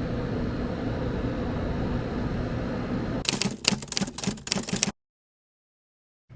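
A steady low hum, then a quick flurry of sharp clicks and rattles lasting about a second and a half. The sound cuts off to dead silence.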